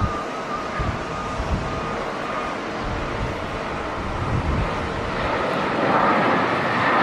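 Jet airliner engine noise with strong wind buffeting the microphone; the jet grows louder about five seconds in.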